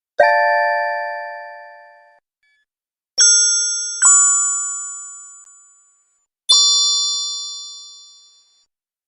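Bell-like chime dings, four in all: one, then two close together like a two-note ding-dong, then one more. Each strikes sharply and fades out over about two seconds.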